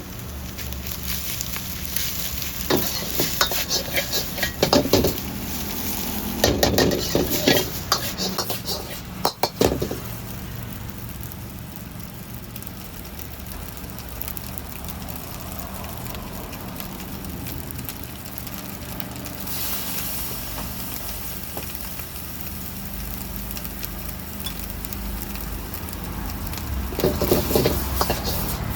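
Food frying and sizzling in a wok as it is stir-fried, with a metal spatula scraping and clanking against the pan. The clanking comes in clusters in the first ten seconds and again near the end.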